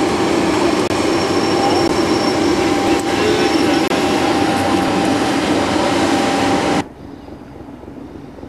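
Flåm Railway train running on the rails: a steady loud rumble of wheels and carriages with a thin, steady whine over it. It cuts off abruptly about seven seconds in, leaving only a faint hiss.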